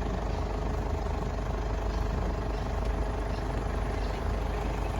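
Engine of a vehicle towing a boat idling steadily while stopped in a queue, a low, even hum with faint steady tones above it.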